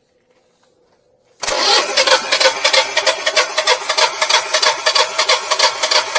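Generac Guardian standby generator's engine suddenly starting about a second and a half in, then running loud with a fast, uneven pulse. The generator keeps kicking on and off, which the owner suspects is air in the gas lines.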